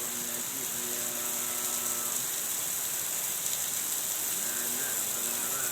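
Steady rain falling, an even high hiss. A faint low tone shows up from about half a second in to two seconds in, and again near the end.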